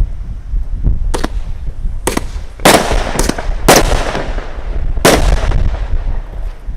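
Consumer fireworks going off: about six sharp bangs in quick succession, each trailing off in a fading echo, over low wind rumble on the microphone.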